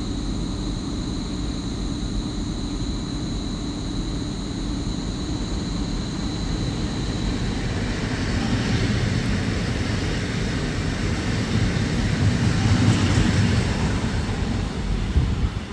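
Electric multiple unit EN63B-105 running past: a steady rumble of wheels on the track that grows louder through the second half, loudest about two seconds before the end. A thin, steady high tone sounds through the first half and fades out.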